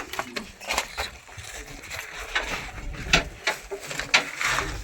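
A run of irregular sharp clicks and knocks.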